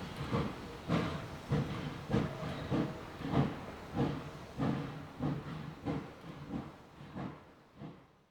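Oil-fired 4-4-0 "American" type steam locomotive working under steam, a steady rhythm of exhaust chuffs about one and a half to two a second with a hiss of steam, growing fainter over the last few seconds.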